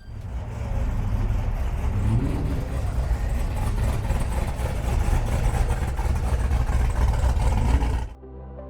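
A car engine running with a deep, rough rumble, revving up briefly about two seconds in and again shortly before the end. It cuts off abruptly and music takes over.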